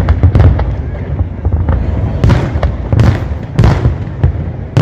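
Aerial fireworks display: a continuous low rumble of bursting shells with sharp, irregular bangs and crackles several times a second.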